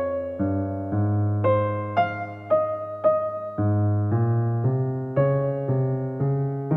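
Soft background music: an electric piano playing a slow, gentle melody of single notes, about two a second, over held bass notes.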